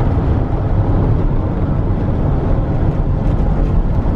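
Steady road noise of a car driving along, heard from inside the cabin, with most of the sound in a low rumble.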